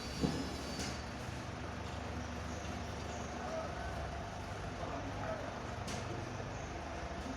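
Hino cement truck's diesel engine running steadily at low speed, with a sharp knock about a quarter of a second in.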